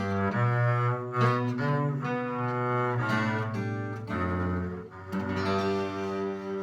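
Double bass playing a line of long held low notes, with an acoustic guitar underneath, in a short instrumental passage of a folk-style song.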